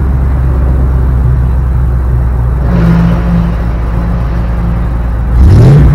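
1998 Ford Explorer's 5.0-litre V8 heard at the tailpipe, idling steadily, then revved once near the end, its pitch rising.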